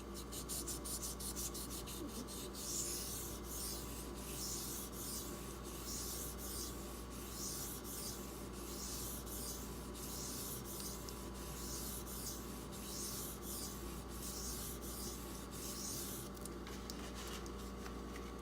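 A D2 steel knife blade being stroked back and forth across a silicon carbide bench stone, a gritty scraping hiss repeated about twice a second. Quicker, shorter strokes come at the start and near the end, over a steady low hum.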